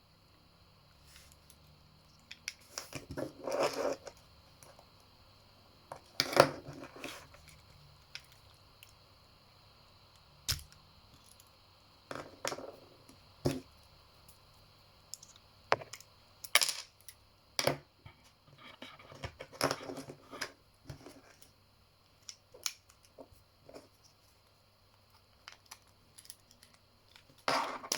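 Vauxhall Adam key fob being handled and taken apart for a battery change: irregular small plastic clicks, scrapes and taps every few seconds, with one sharp click about ten seconds in.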